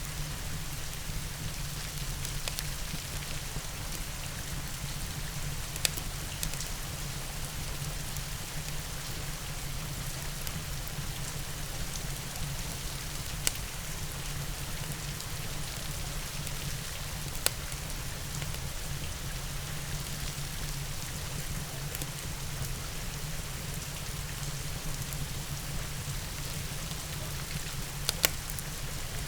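Steady rain with a fire burning in a fireplace. A few sharp crackles sound, scattered a few seconds apart.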